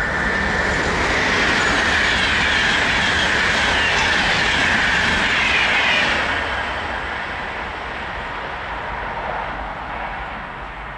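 Swiss express passenger train passing at high speed: a loud rush of wheels on rail and air for about six seconds, then fading away as the train recedes.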